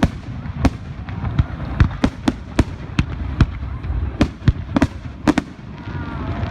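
Fireworks display: a quick, irregular run of sharp bangs and cracks, about fifteen in all, some coming close together, over a steady low rumble.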